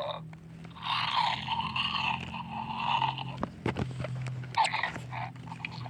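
Toy dinosaur making its sound: one long call of about two and a half seconds starting about a second in, then a shorter one after a few clicks.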